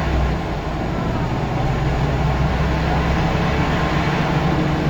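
Scania L94UB single-decker bus's diesel engine running steadily, a deep drone whose lowest part eases about three seconds in.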